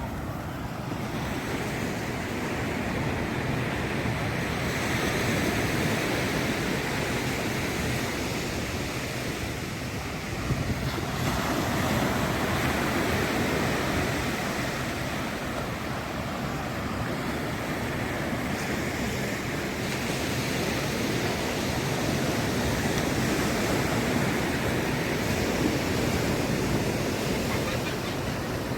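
Ocean surf breaking and washing ashore, a continuous rush of water that swells and eases in slow surges roughly every ten seconds.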